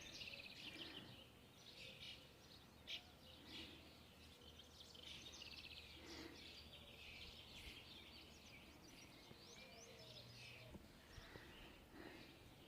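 Faint birdsong: several small birds chirping and trilling in short, scattered phrases.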